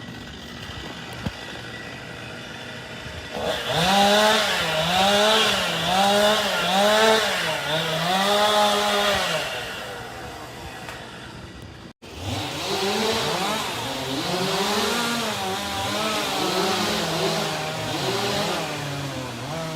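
Gas chainsaw idling, then revved up and down in about five quick pulses, with more uneven revving after a brief break.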